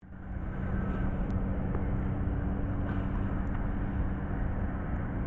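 Steady low rumble of distant engine noise, with a constant hum running through it.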